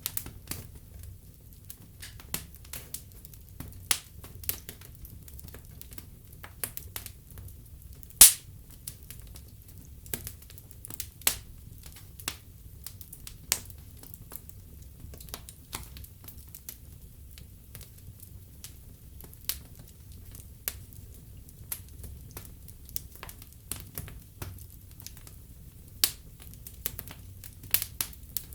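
Wood fire burning in a fireplace: irregular sharp crackles and pops over a steady low rumble of the flames, with a loud single pop about eight seconds in.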